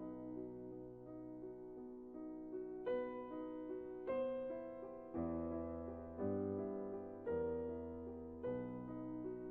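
Background piano music: slow, soft chords struck about once a second, each fading away before the next.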